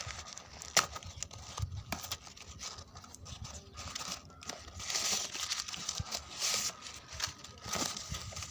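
Packaging crinkling and rustling as it is handled and opened, with scattered sharp clicks and taps; the rustling is loudest about five and six and a half seconds in.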